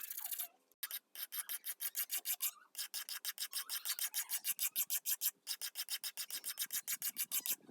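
Hand sanding on wood: rapid back-and-forth scratchy strokes, about nine a second, with a few short breaks.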